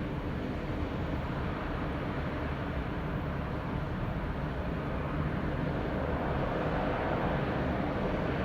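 Jet engine running on a factory test stand: a steady, dull rumbling noise with little high end, growing slightly louder about five seconds in.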